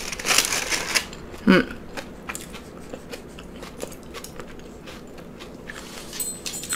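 Mouth chewing and biting food very close to the microphone, with a brief pitched voice sound about one and a half seconds in.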